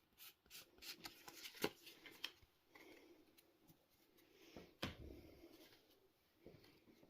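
Trading cards being flicked and slid against one another as a pack is sorted through: a run of faint, quick scrapes and clicks in the first couple of seconds, then a single sharper click about five seconds in.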